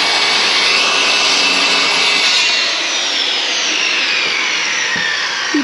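A power tool running loudly and steadily under load, most likely a saw cutting. Its pitch sinks slowly through the second half, and it cuts off near the end.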